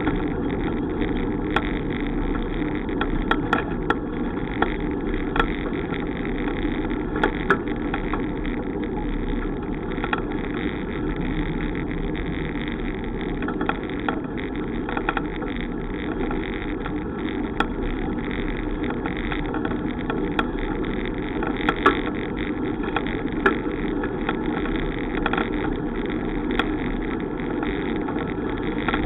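Steady wind and road rumble from riding a bicycle, with scattered small clicks and rattles.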